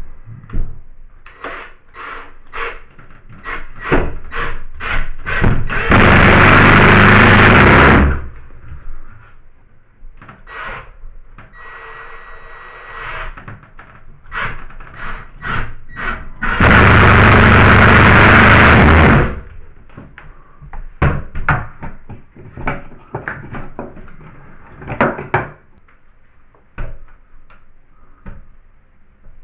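Power drill driving drywall screws: two loud runs of about two seconds each, the first about six seconds in and the second near seventeen seconds, among many knocks and clatters of tools and boards being handled.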